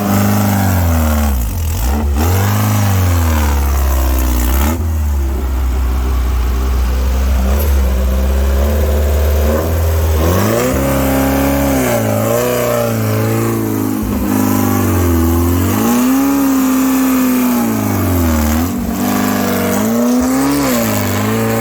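Off-road buggy engine revving up and down over and over as it is driven, its pitch climbing and dropping every second or two, with a few sharper dips.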